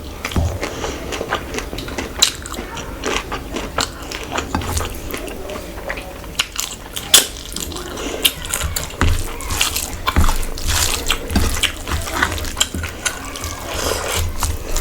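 Close-miked wet eating sounds: irregular smacking, chewing and squelching of curry and rice, with many short sharp clicks.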